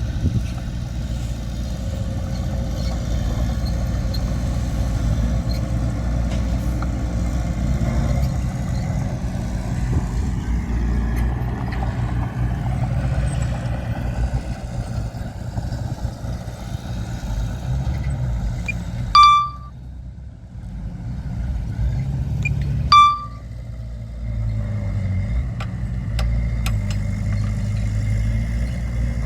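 Heavy diesel earthmoving machinery running steadily with a deep engine drone, briefly quieter for a few seconds past the middle. Two short, high beeps sound about four seconds apart.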